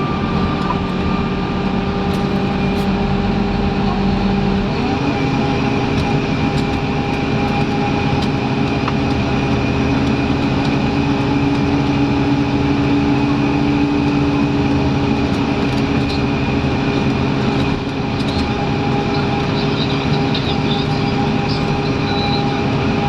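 Scania N230UD Omnidekka double-decker bus's diesel engine and driveline running under way, a steady mix of engine drone and whine. About five seconds in the engine note steps up in pitch and then holds steady.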